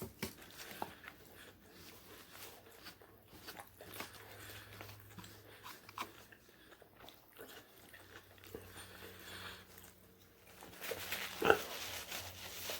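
A person chewing and biting into crispy fried chicken nuggets close to the microphone, with small wet clicks and crunches. A single sharper, louder sound comes near the end.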